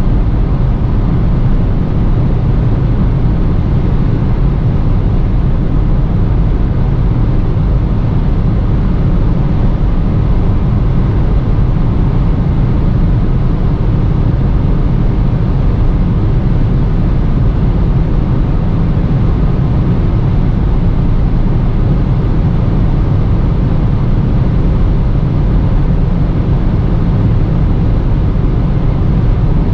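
Skoda Fabia 1.0 TSI's turbocharged three-cylinder petrol engine running at full throttle as the car accelerates at high speed towards its top speed. A heavy, steady low rumble of road and wind noise covers it throughout.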